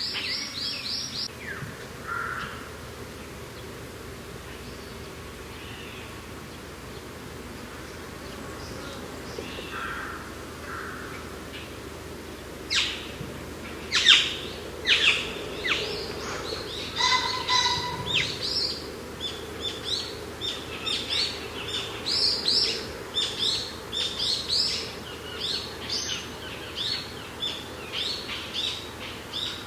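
Small birds chirping and calling over a steady rush of mountain wind. The calls are sparse for the first half, then a quick run of many short chirps takes over from about halfway through.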